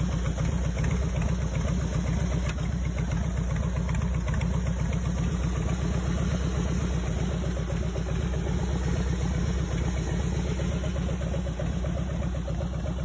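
Harley-Davidson Heritage Softail V-twin engine idling steadily, with a fast, even pulsing exhaust beat.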